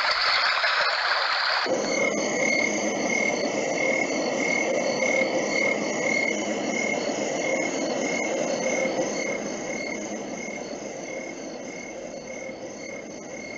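Homedics Sound Spa portable sound machine playing its recorded brook sound. About two seconds in it switches to its summer night track: crickets chirping in regular pulses, about two a second, over a steady bed of other night-time background noises.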